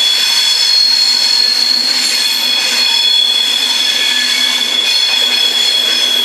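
Virgin Trains Class 390 Pendolino electric train rolling slowly past, with steady high-pitched squealing from its wheels over the rumble of the cars.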